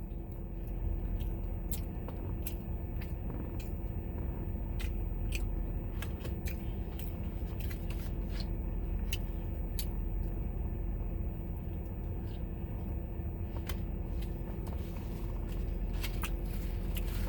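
A person chewing and biting into crunchy fried food close to the microphone, with scattered sharp crunches at irregular intervals over a steady low hum.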